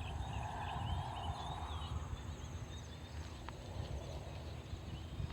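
Evening rice-paddy chorus: small frogs calling in a dense chatter and birds chirping, both fading out about two seconds in, over a thin steady insect trill and a low rumble.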